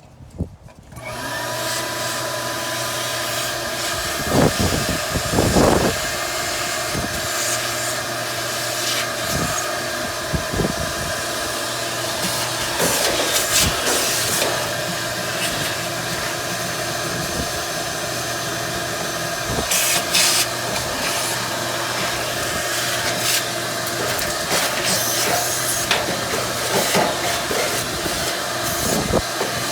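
Vacuum cleaner switched on about a second in and running steadily with a whining motor tone, with irregular knocks and scrapes as the nozzle works at the dryer's lint.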